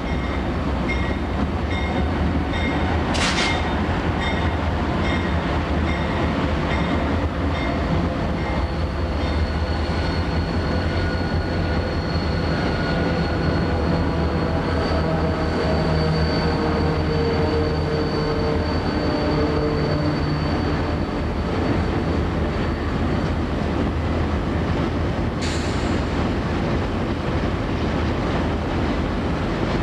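A freight train rolling past with a steady heavy rumble. Through the middle there is a high wheel squeal, and there are two sharp clanks: one about three seconds in and one a few seconds before the end.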